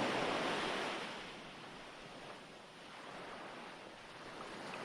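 Ocean waves washing on a shore: a steady surf hiss that swells and then ebbs away about a second in.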